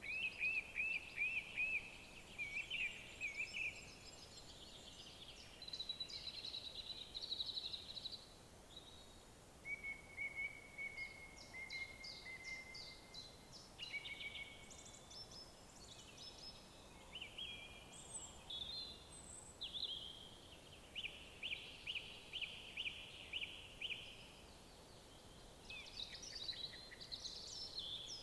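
Songbirds singing: a run of short phrases, many made of quickly repeated high notes, following one after another with brief gaps, over a faint steady hiss.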